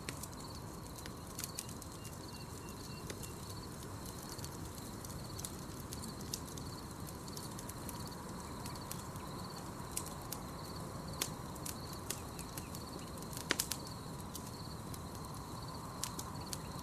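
Campfire crackling over a steady low rush, with scattered sharp pops, the loudest about two-thirds of the way through. A continuous high, pulsing trill of night insects runs underneath.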